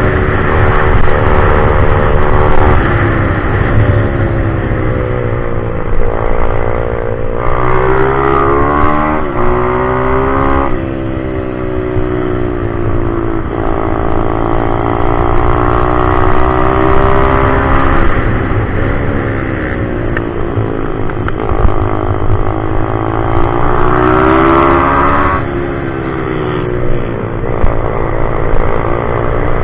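Pit bike engine running hard, its pitch climbing and then falling back again and again every few seconds as the throttle opens and closes.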